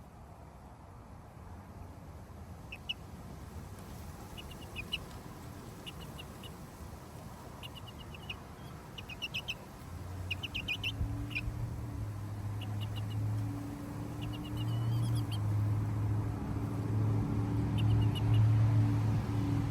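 Short clusters of high, quick bird chirps, repeated every second or two for most of the stretch. A steady low hum comes in about halfway and grows louder toward the end.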